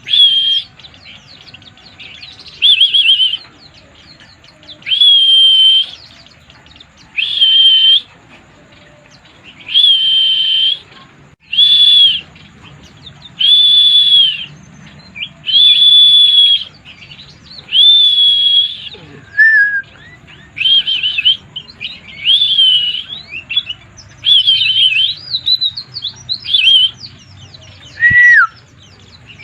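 A white-eye (pleci) singing in 'mabuk' form, the bird-keepers' word for a bird in full, excited song. It gives high, loud whistled phrases about a second long, roughly every two seconds. In the second half these break into shorter, quicker and more varied twittering, with a couple of lower falling notes.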